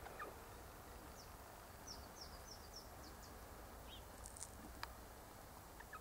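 Faint, high-pitched bird chirps: a quick run of about five short descending notes around two seconds in, with a few scattered single chirps before and after.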